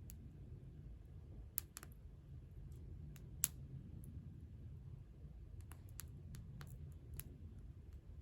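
Campfire of burning wood crackling: irregular sharp pops, about eight of them and the loudest about three and a half seconds in, over a steady low rumble.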